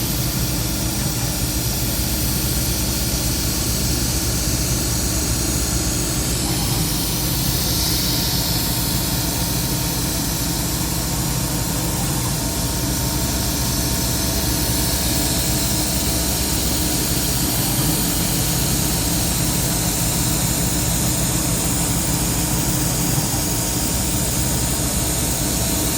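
Rong Fu round-column mill with a CNC conversion, its spindle running and end mill making a facing pass in delrin, with the steady hiss of an air blast clearing chips and a quiet air compressor running underneath. The hiss brightens for a couple of seconds about seven seconds in.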